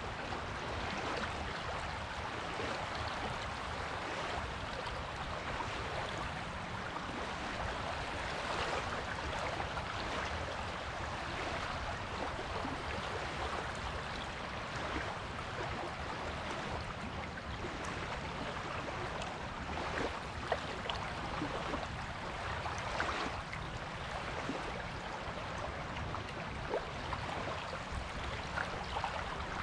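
Water washing steadily on a beach, an even hiss without large breaking swells, with a few brief crackles and ticks.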